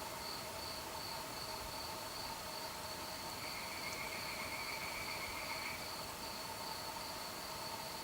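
Crickets chirping in a steady, evenly pulsing high chorus. A second, lower insect trill joins for about two seconds in the middle.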